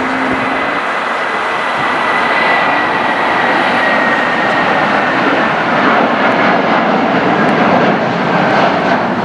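Airliner jet engines passing close by: a loud, steady rush with a thin high whine that slowly drops in pitch.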